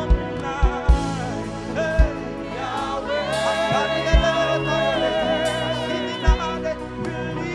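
Live gospel praise music: a lead vocalist holds long notes with vibrato over a band, with kick drum hits.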